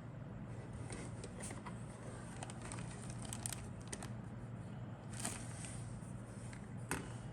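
Handling of a plastic model kit's contents and packaging: scattered clicks, crackles and crinkles, the sharpest near the end, over a steady low hum.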